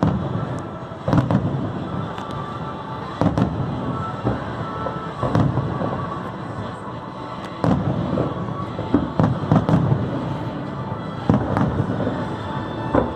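Aerial fireworks bursting: about a dozen booms and crackling reports, some in quick clusters, with music playing steadily underneath.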